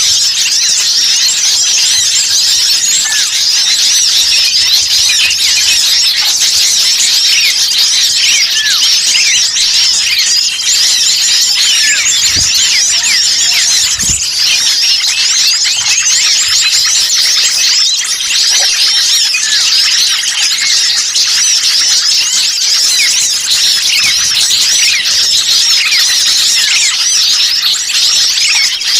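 Dense, unbroken chorus of many small songbirds chirping and twittering over one another, high-pitched and busy: the noisy mixed-bird calling used as a lure to draw in wild small birds.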